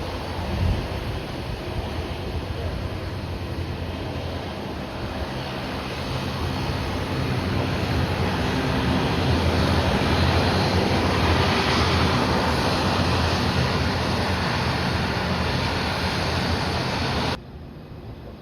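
Airliner jet engine noise during takeoff, growing louder to a peak about halfway through and then easing slightly, cut off suddenly near the end.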